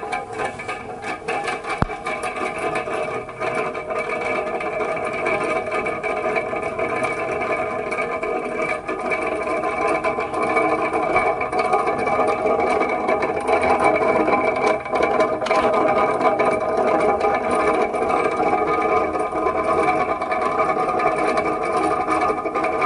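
Electric fan running with a steady whirring hum of several fixed pitches. It starts just before and grows louder over the first dozen seconds, then holds steady.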